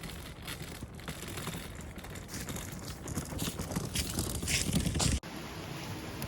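Irregular crinkling and rustling that grows louder over about five seconds, then stops abruptly and gives way to a steady, quieter hiss.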